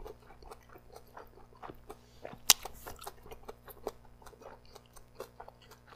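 Close-miked chewing of grilled, sauced Korean chicken skewer (dakkochi): a run of soft, wet mouth clicks and smacks, with one sharper click about two and a half seconds in.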